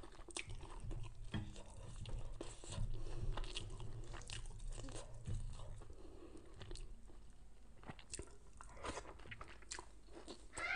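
A person chewing a mouthful of spicy kohlrabi salad close to the microphone: soft crunches and small wet mouth clicks scattered irregularly, with a low chewing rumble in the first half.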